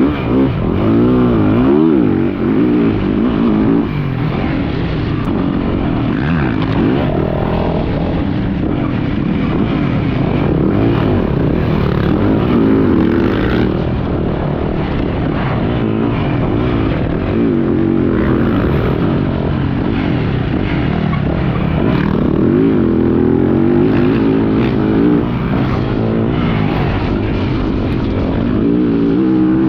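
Yamaha YZ450F four-stroke single-cylinder motocross bike engine revving up and falling back again and again as the throttle is worked on and off through a lap.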